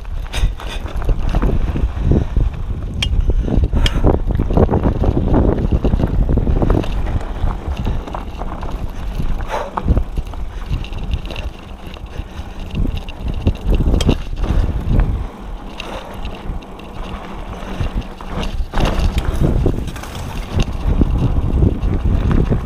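Diamondback Line hardtail mountain bike riding a dirt trail: tyres rumbling over the ground with wind buffeting the microphone, and frequent sharp clicks and rattles from the bike over bumps.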